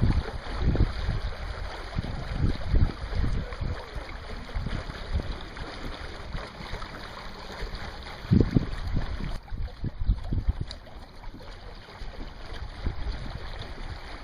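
Wind buffeting the microphone in irregular gusts over a steady rush of wind and water. The rushing eases briefly about two-thirds of the way in.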